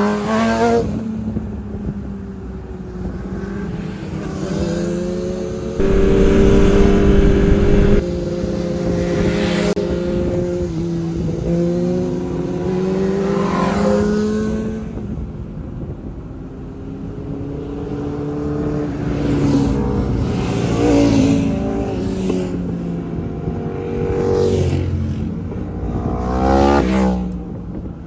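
Superbike engines running under a steady drone, with motorcycles revving and riding past one after another; each pass has a rising then falling engine note. There is a louder, rougher stretch of about two seconds around six seconds in.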